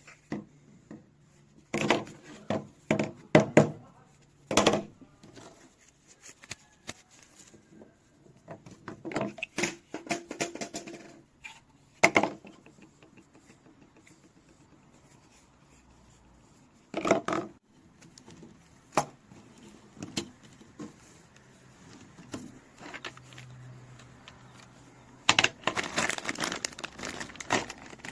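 Intermittent clicks, knocks and rustling from objects being handled, coming in several short clusters with quieter gaps between.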